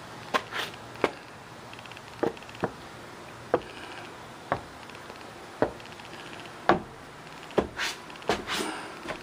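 Footsteps on a hard surface, about one step a second, ending in a quicker cluster of knocks near the end.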